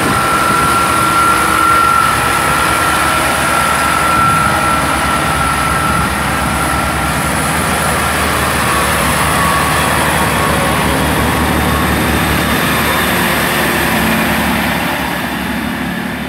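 Class 166 diesel multiple unit's diesel engines running loudly at the platform, with a steady high-pitched whine over the engine noise. The sound eases near the end.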